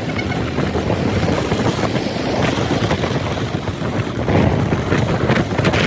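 Steady rushing wind on the microphone of a moving motorcycle, with the bike's running and road noise underneath.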